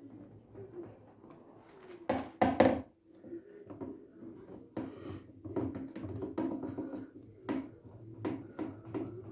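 Irregular knocks, clicks and clatter of parts being handled during washing machine reassembly, with a loud clatter of two or three impacts about two seconds in.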